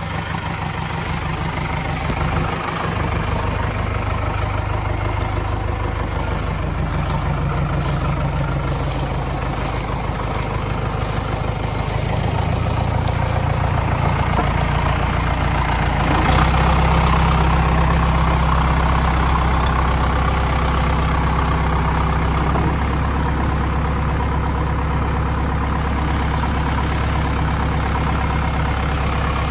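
Heavy vehicle's diesel engine idling steadily, stepping up to a slightly louder, faster idle about sixteen seconds in.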